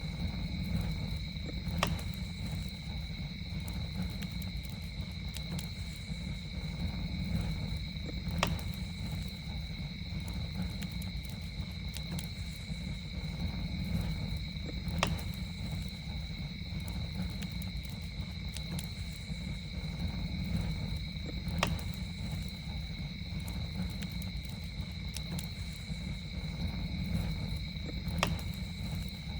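Campfire burning with a steady low rumble and crackling, with a sharp pop about every six or seven seconds. A steady high trill of night insects runs underneath.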